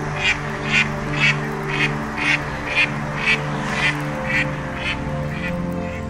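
Mallard duck quacking in a regular series, about two quacks a second, growing fainter near the end, over soft background music.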